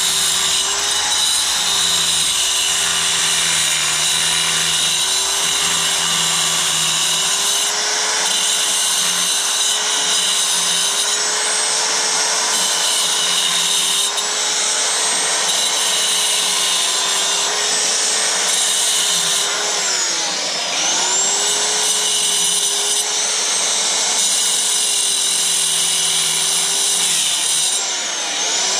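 A power tool's motor runs steadily with a dense whirring noise. Its pitch sags and recovers briefly, as under load, about twenty seconds in and again near the end.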